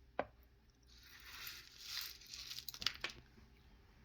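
Pigeon feed grain being spooned into a container on a scale: a soft rustle and patter of seeds with a few clicks of the spoon.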